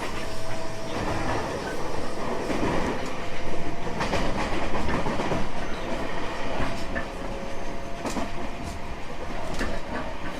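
A JR West 225-5000 series electric train running, heard from inside the car: a steady rumble of wheels on rail with irregular clicks over the rail joints and a faint steady motor tone.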